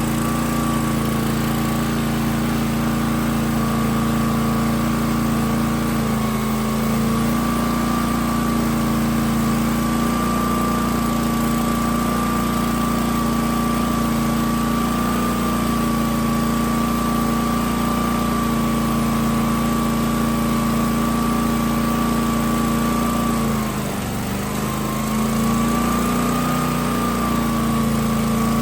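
The 16-horsepower gasoline engine of a Hotsy pressure washer running steadily. Its pitch and level sag briefly about three-quarters of the way through, then recover.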